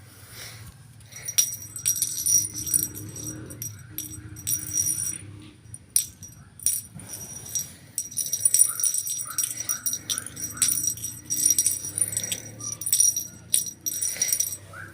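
A small metal bell jingling in repeated shaken bursts, typical of a cat's bell toy being batted and played with.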